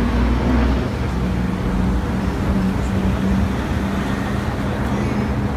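Busy city street traffic: the steady noise of car, taxi and bus engines and tyres, with a held low engine hum.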